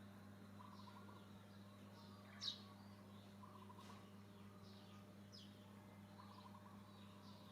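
Faint short high-pitched chirps repeating every second or so, the loudest about two and a half seconds in, with quieter trilling calls between them over a steady low hum.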